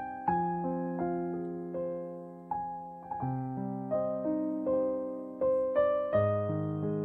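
Background piano music: a slow, gentle melody of single struck notes over held chords.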